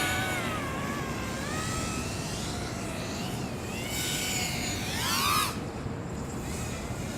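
Eachine Wizard X220 FPV racing quadcopter flying, its brushless motors and propellers whining with pitch falling and rising as the throttle changes. About five seconds in the whine sweeps up sharply and then cuts off suddenly, as the throttle is punched and chopped.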